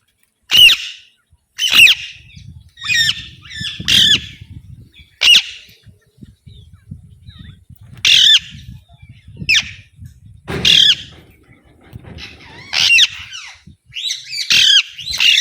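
Alexandrine parakeet giving a string of short, harsh squawks, about a dozen at irregular gaps of roughly a second.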